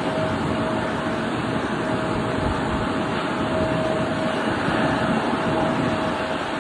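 Steady aircraft noise at an airport: a constant roar with a thin, steady whine above it.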